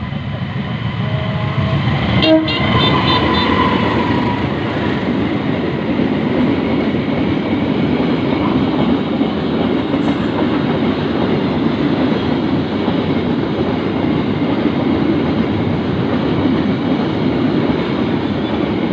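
Train passing close by: a horn sounds briefly about two seconds in, then the steady rumble and clatter of the railway cars going by.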